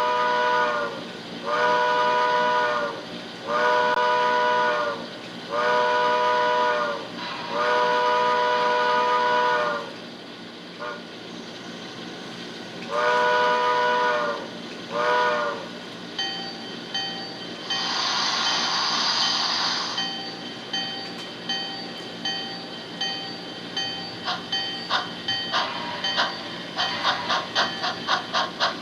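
Sound-equipped HO scale model steam locomotive. A multi-tone chime whistle sounds five long blasts, then one more and a short toot. Then comes a burst of steam hiss, and exhaust chuffs start up and quicken to about three a second as the engine gets its train moving.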